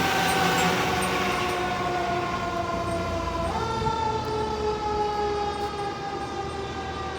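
Fire truck siren wailing and fading as the truck moves away. Its pitch falls slowly, jumps back up about halfway through, then falls slowly again.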